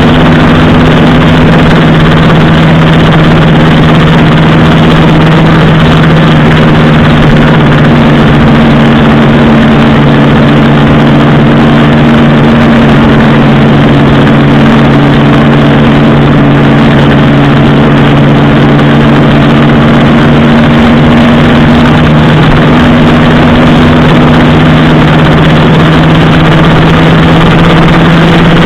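Motorcycle engine running at a steady, unchanging pitch on the move, very loud, with a constant rushing noise over it.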